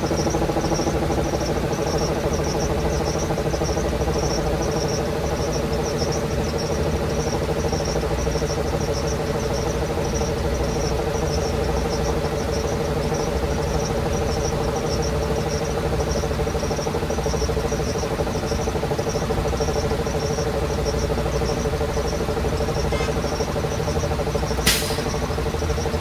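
2012 Blue Bird school bus engine idling steadily. A sharp click comes near the end.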